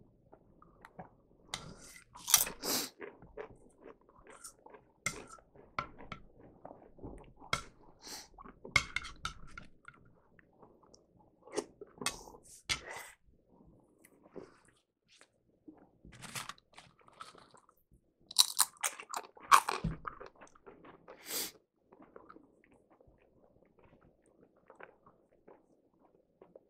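Chewing and crunching of tortilla chips eaten with chili, in irregular bursts. Loudest about two seconds in and again about two-thirds of the way through, then faint near the end.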